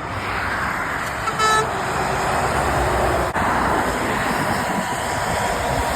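Motorway traffic passing on a wet road, a steady hiss of tyres through spray, with one short horn toot about a second and a half in.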